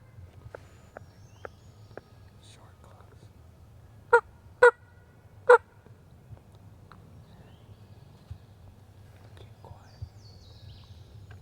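Turkey call sounding three loud, short yelps about half a second apart, a little after four seconds in, close to the microphone. A faint bird chirp sounds near the end.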